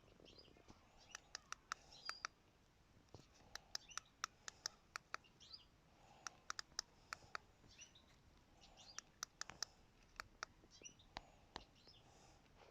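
Runs of faint, sharp clicks, several in quick succession every second or two, over faint bird chirps.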